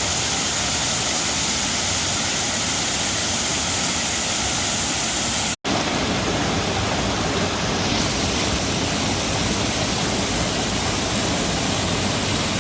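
Waterfall roaring: a loud, steady rush of falling water that cuts out for an instant about five and a half seconds in, then carries on.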